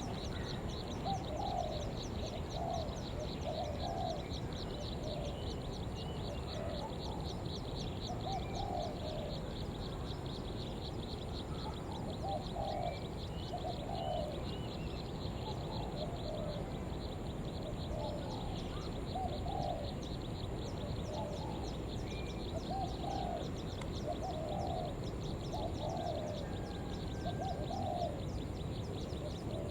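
Spotted dove (cu gáy) cooing over and over in short groups of low notes, every second or two, in the fast 'gọi thúc' calling style.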